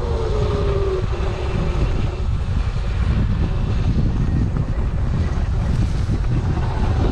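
Heavy wind buffeting the microphone while riding an electric dirt bike on a trail. Under it, a faint electric motor whine drops in pitch in the first second as the bike eases off.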